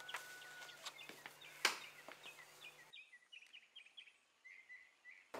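Small birds chirping repeatedly in faint rural outdoor ambience, with one sharp knock about a third of the way in. The background noise drops away suddenly just past halfway while the chirping goes on.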